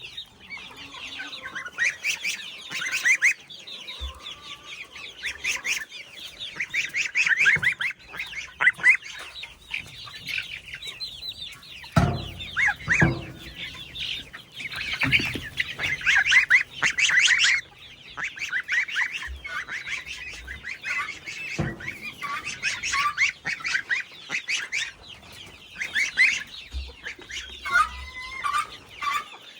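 A brooder full of young poultry peeping nonstop: many high, fast, overlapping cheeps, with a few dull knocks in the middle.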